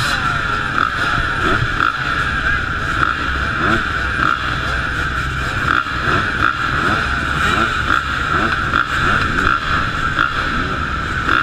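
Motocross motorcycle engines running and revving up and down again and again, with a voice mixed in.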